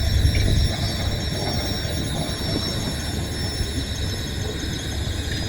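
An engine running steadily with a strong low rumble, and a steady high whine above it.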